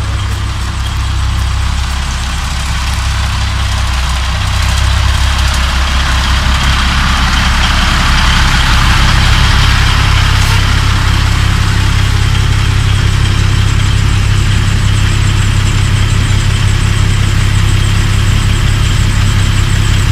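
Vehicle engine running steadily, growing louder about five seconds in and then holding a steady level.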